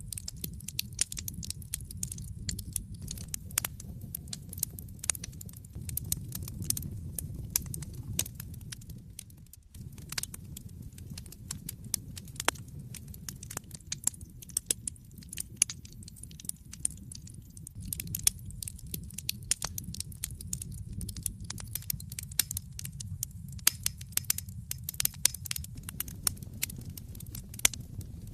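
Wood fire in a fireplace crackling: frequent sharp pops and snaps over a low steady rumble of the flames. The rumble drops out briefly about ten seconds in.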